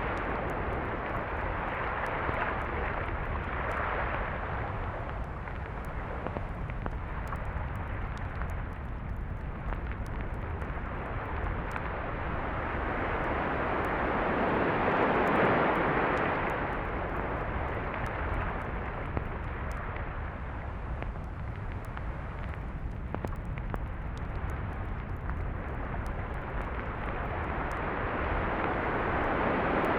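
Sea surf washing onto a beach, rising to a louder swell about halfway through and again at the end, over a steady low rumble.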